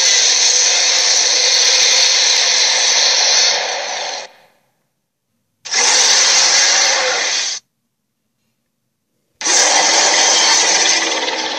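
Harsh, noisy creature sound effect in three bursts, each cut off into dead silence: a long one fading out about four seconds in, a shorter one of about two seconds, and a third starting about nine seconds in.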